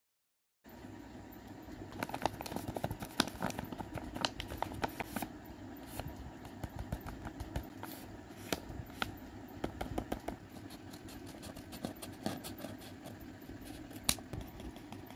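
Lined notebook paper handled close to the microphone: irregular light crackles and taps over a steady low hum, starting after a moment of silence.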